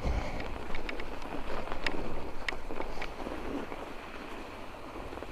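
Mountain bike rolling over snow: a steady rush of tyre noise and wind on the microphone, with scattered sharp clicks and rattles from the bike in the first few seconds.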